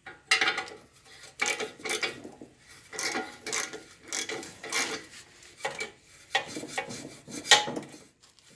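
Loose metal parts and tools clanking and rattling in irregular knocks, some leaving a short metallic ring, as they are handled during an engine swap on a lawn tractor.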